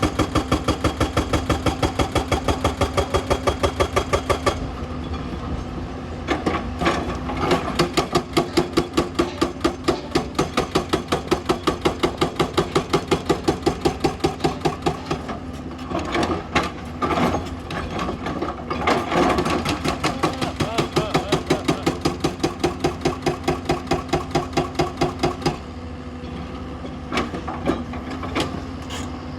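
Hyundai 210 excavator at work: its engine runs steadily under a rapid, regular clatter of about five beats a second. The clatter stops and starts several times, giving way to a steadier engine run near the end.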